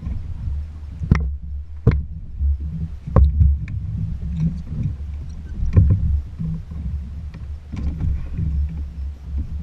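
Jet ski engine giving a low, uneven rumble on the water, with several sharp knocks.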